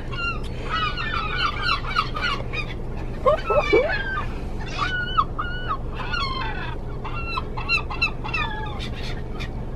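Several seagulls calling, a rapid run of short, repeated squawks overlapping one another.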